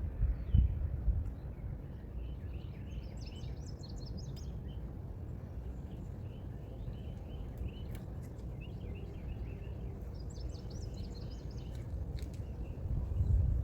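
Birds chirping in short repeated notes, in two spells, over a steady low rumble that swells briefly near the start and near the end.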